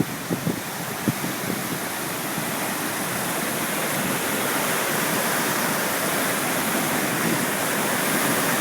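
Lester River in flood: swollen water rushing steadily, growing slowly louder.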